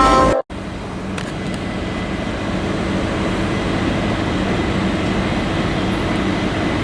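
The last moment of a Leslie RS5T locomotive horn, cut off abruptly in the first half second, then a steady rumble of a train idling with a faint low hum.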